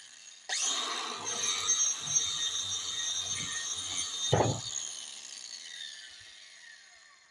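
Angle grinder with a wood-shaping disc spinning up with a rising whine, running against the wood with scattered knocks and one heavy thump about four seconds in, then switched off and winding down with a falling whine.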